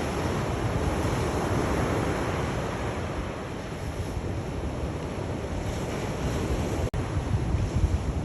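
Sea surf: waves washing continuously onto the shore as a steady rushing wash with a deep rumble underneath. About seven seconds in, the sound cuts out for an instant.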